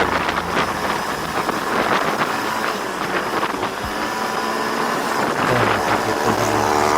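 Wind rushing over the microphone on a slow motorcycle ride, with the motorcycle's engine running steadily underneath.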